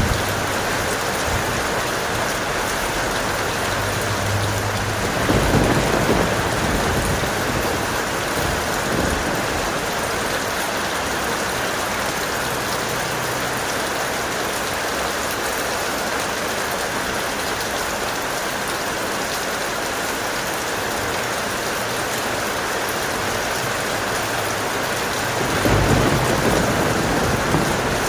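Steady heavy rain with two low rolls of thunder, one about five seconds in and one near the end.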